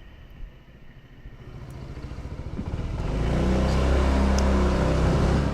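Honda 125cc motorcycle engine and road noise building up, loudest in the last couple of seconds as a steady low engine note, then cutting off suddenly at the end.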